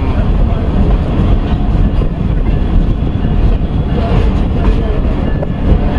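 Passenger train running along the track, heard from the open door of a coach: a steady rumble of the carriage and its wheels on the rails.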